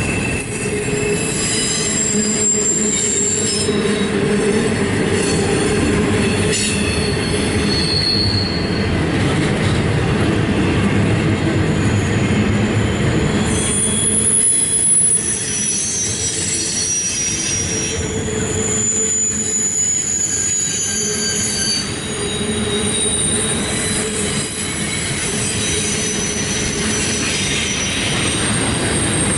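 CSX intermodal train's double-stack container well cars rolling past: a steady rumble of wheels on rail, with thin high-pitched wheel squeals coming and going.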